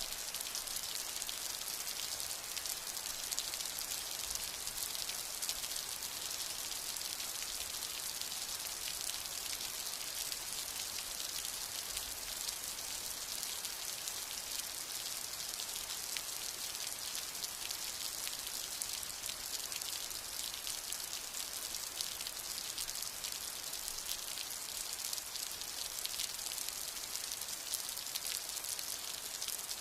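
Steady rain falling, an even, dense hiss of many small drop impacts with no break or swell.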